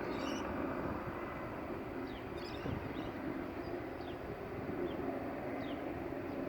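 Steady drone of an aircraft flying overhead, with small birds chirping now and then.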